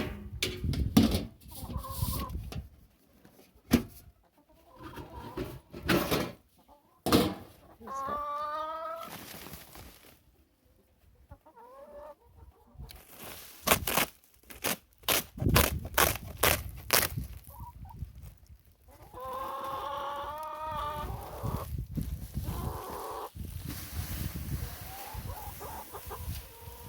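Chickens clucking, with two longer drawn-out calls, one about a third of the way in and one about two-thirds in, among repeated sharp knocks and taps.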